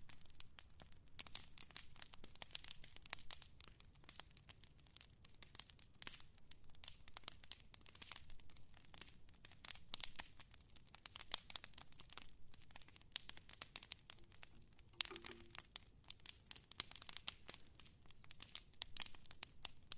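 Fire crackling: a dense, irregular run of sharp pops and snaps.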